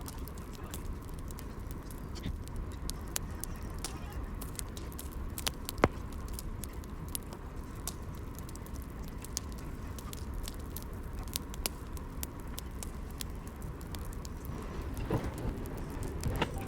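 Wood fire crackling in a fireplace: a steady low rumble with irregular sharp snaps and pops, one louder pop about six seconds in.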